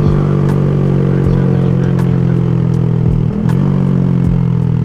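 Honda Grom motorcycle engine running at steady revs under way, its note dipping briefly about three seconds in and picking up again, with another dip near the end.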